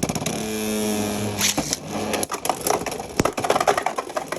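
Beyblade X spinning tops whirring and clashing in a plastic stadium: a steady hum that dies away about two seconds in, under rapid clicks and rattles of collisions, with a sharp hit about three seconds in.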